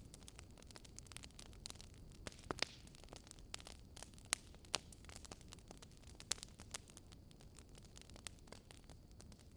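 Wood fire crackling and popping: irregular sharp snaps over a soft steady hiss, with a few louder pops.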